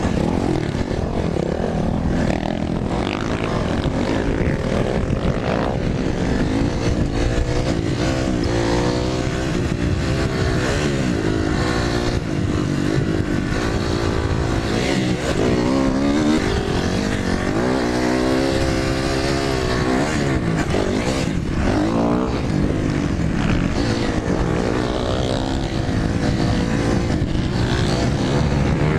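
Dirt bike engine on a motocross track, revving up and falling back again and again as the rider works the throttle, over a steady rushing noise.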